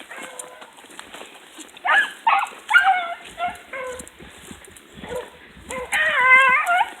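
Hunting hounds baying on a trail: a few short bays about two to three seconds in, then a longer, wavering bay near the end.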